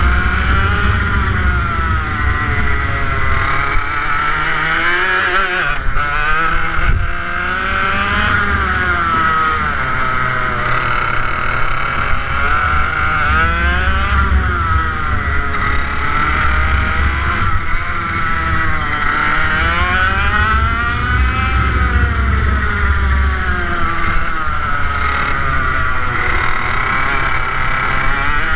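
TM K11B 100cc water-cooled two-stroke kart engine running under load on track, its pitch repeatedly climbing and dropping as the revs rise and fall, several times over.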